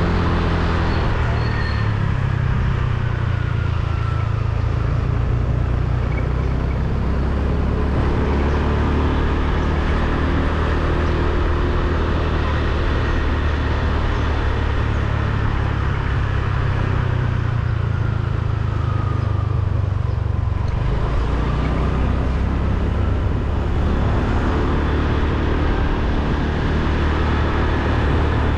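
Motorbike engine running steadily while riding along a road, with wind and road noise and surrounding traffic. The engine note drops and picks up again about two-thirds of the way through, as the throttle eases and opens.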